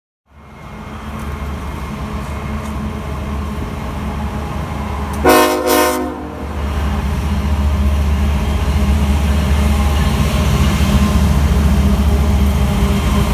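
Diesel freight locomotives of a BNSF train running in with a steady low engine rumble. One short horn blast about five seconds in is the loudest moment. After it the engine rumble grows louder as the lead locomotives pass close below.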